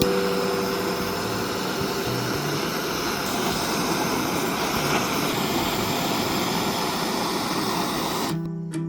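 Handheld propane torch burning with a steady, even hiss that holds for about eight seconds, then gives way to guitar music near the end. The torch is scorching the sanded wooden carving to burn off the fibres the sandpaper missed.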